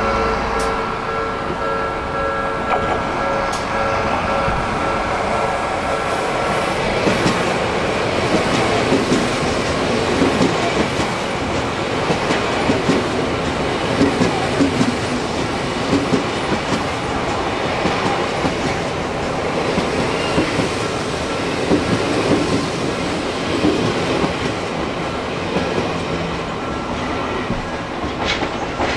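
An Odakyu electric commuter train passes close by at speed, its wheels clattering over the rail joints in regular beats. A level-crossing warning bell rings steadily at first, then is buried under the train noise about seven seconds in.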